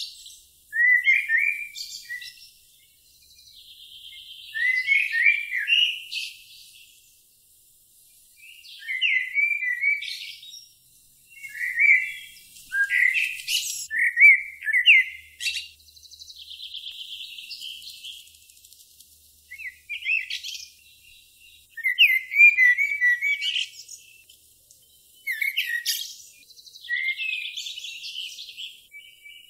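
Songbird singing: short whistled, chirping phrases repeated every few seconds, with a thin buzzing trill between some of them.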